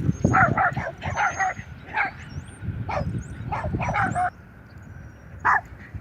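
Dogs barking in a rapid string of short, sharp yips over the first four seconds, then a single bark near the end.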